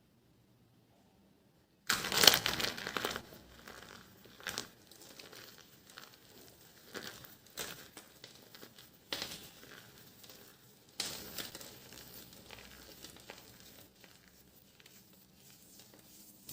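Dry soap being crushed, with a crisp crackling and crumbling. It starts suddenly with a loud crunch about two seconds in and carries on as an irregular crinkle, with sharper crunches every second or two.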